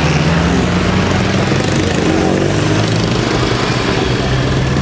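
A vehicle engine running steadily, its pitch rising a little over the first two seconds and then holding.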